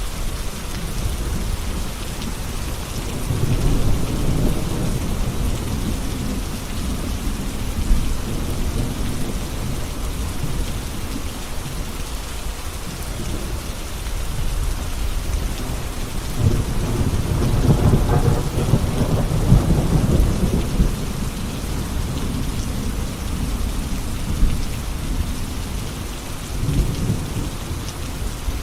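Steady rain falling, with rolling thunder: a low rumble about three seconds in, a longer and louder one from about sixteen to twenty-one seconds, and a short one near the end.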